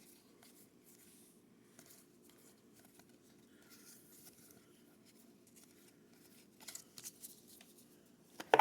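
Faint handling of trading cards: soft rustles and light clicks as cards are sorted, with a few sharper ticks about seven seconds in and one sharp knock near the end.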